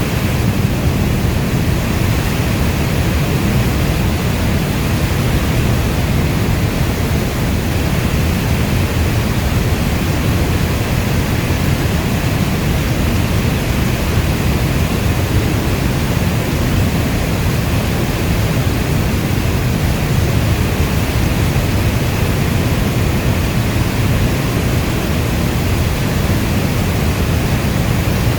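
Steady heavy rain: a dense, unbroken wash heaviest in the low end, with no single drops or thunder standing out.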